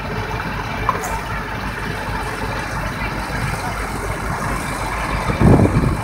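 Diesel engine of a large articulated tractor running as it drives by, steady, with a louder low rumble about five and a half seconds in.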